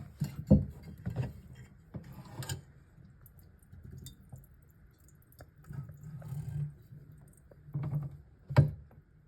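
Eggs left boiling too long, popping irregularly in the pot, a sign they were forgotten on the heat. The loudest pops come about half a second in and near the end, with quieter knocks and crackles between.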